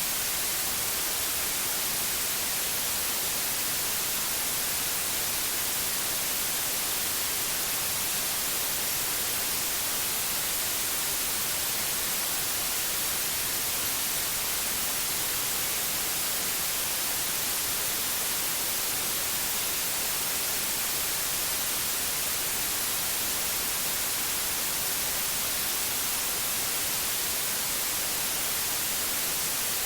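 Steady white noise: an even, unchanging hiss, brightest in the highs, with no breaks.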